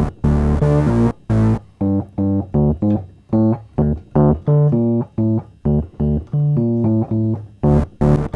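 Fender Rhodes electric piano played through an Electro-Harmonix Bass Mono Synth pedal with the dry piano signal mixed in: a run of short, separated, bass-heavy synth notes, the first few brighter than the rest.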